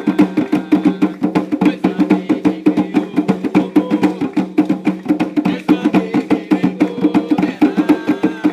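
Fast, steady ritual hand drumming with a sharp clattering beat, the percussion that accompanies Umbanda chants, typically atabaque drums.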